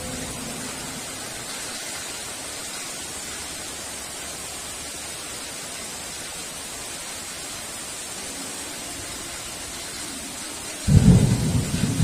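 Heavy rain hissing steadily as a thunder rumble dies away in the first second. About eleven seconds in, a sudden loud clap of thunder breaks in and rumbles on.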